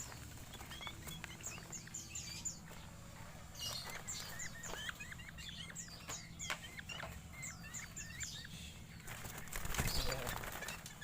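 Drongos calling rapidly, a stream of short sharp chirps, many sweeping down in pitch, while contesting territory. A louder rustling burst comes about nine seconds in.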